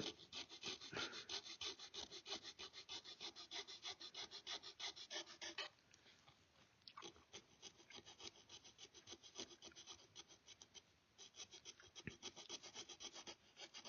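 Fine hand file worked in quick, short strokes, about five a second, in three runs with two brief pauses, shaping small curves into a rifle-kit panel.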